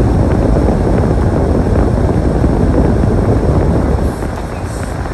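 Strong wind rumbling and buffeting against the microphone during a snowstorm: a loud, deep, uneven rush that eases a little near the end.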